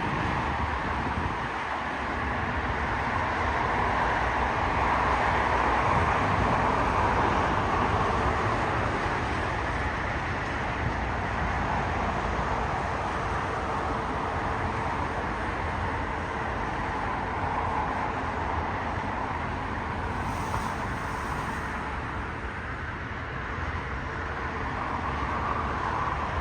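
Jet airliner passing overhead: a broad engine rush that swells over the first several seconds and slowly dies away.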